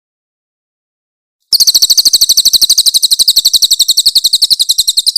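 Crested jay (cililin) calling: a loud, very fast, high-pitched rattling run of about a dozen notes a second, starting about a second and a half in.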